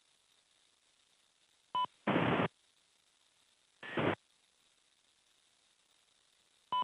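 Military radio being keyed: short bursts of static, each led by a brief beep, about two seconds in and again about four seconds in, with another beep at the very end and dead silence in between.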